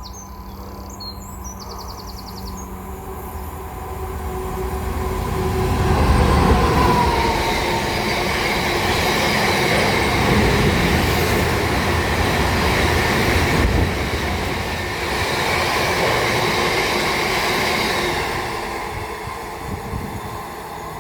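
Class 59 diesel locomotive with its two-stroke EMD V16 engine passing through on the rails, with wheel and rail noise. It builds up over several seconds, stays loud through the middle, then fades away near the end.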